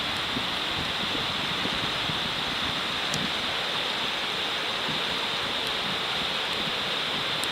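Food frying in a hot iron frying pan: a steady sizzling hiss with a few faint ticks.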